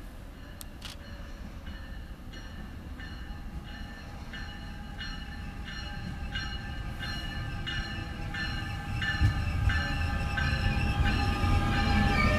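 New Jersey Transit Bombardier ALP-46A electric locomotive and its multilevel cars approaching and pulling into the station, growing steadily louder as it nears. A pitched ring repeats about twice a second throughout, and a steady whine comes up in the second half.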